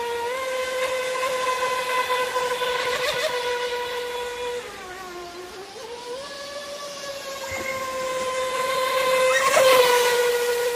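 Brushless electric motor of a Feilun FT011 RC racing boat whining at a steady high pitch. Near the middle the pitch and level drop, then climb back, and it is loudest near the end.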